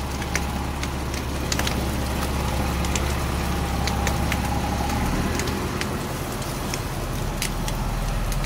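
Fire engine's motor running steadily with a low drone that changes note about five seconds in, with scattered sharp crackles of burning grass.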